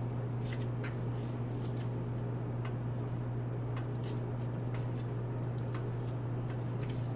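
Pot of rice and water simmering on the stove: scattered small pops and crackles of bursting bubbles at irregular times, over a steady low hum.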